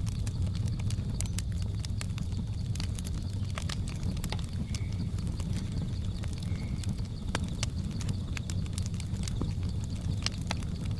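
Wood fire crackling: irregular sharp pops and snaps over a steady low roar of flames. A faint steady high insect-like drone and two short high chirps of jungle ambience sit behind it, the chirps about five and seven seconds in.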